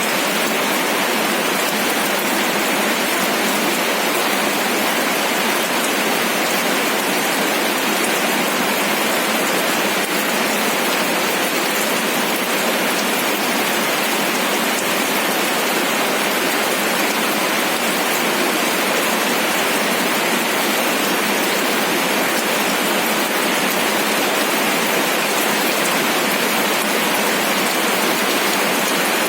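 Steady rain falling on a surface, an even, unbroken hiss of drops at a constant level.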